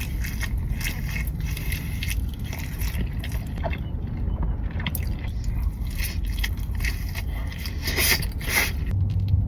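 A person chewing and biting into Taco Bell food close to the microphone, with scattered wet crunches and clicks. A steady low rumble runs underneath.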